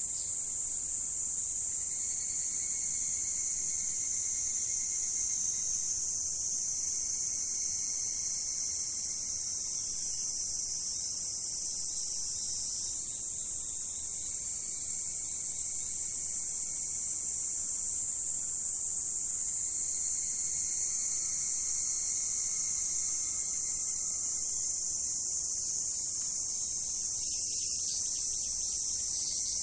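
Insect chorus: a steady high-pitched shrill with no break, and a fainter, lower thin whine that fades in and out.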